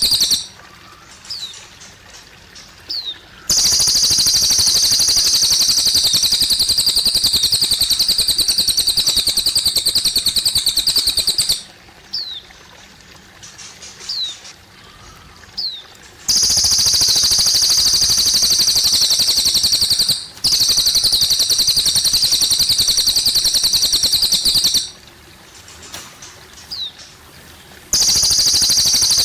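A cililin bird singing long, very rapid high-pitched trills, each lasting about four to eight seconds. Short pauses between them hold a few brief sliding chirps. A faint water trickle runs underneath.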